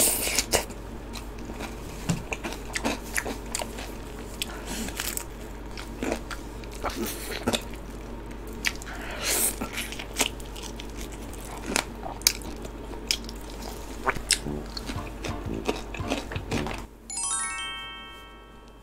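Close-miked crunching and chewing of crispy cheese-seasoned fried chicken coated in sauce, with sharp crackles every second or so. Near the end the eating stops and a short edited-in tonal sound effect plays.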